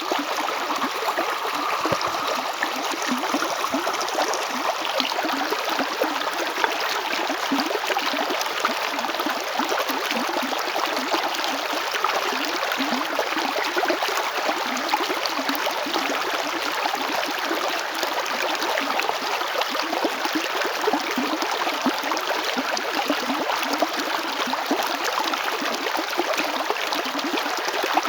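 River water flowing over stones, a steady rushing babble with small gurgles and splashes.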